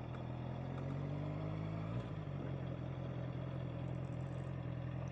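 Honda CBR650R's inline-four engine running under way, its note rising slowly, then dipping briefly about two seconds in and holding steady.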